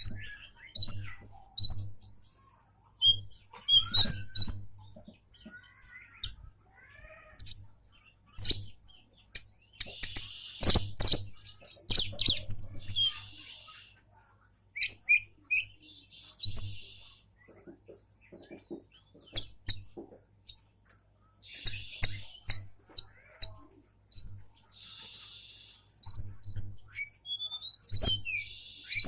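Oriental magpie-robin (kacer) singing a long, varied song of sharp high whistles and clicks, broken several times by harsh rasping stretches lasting a second or two.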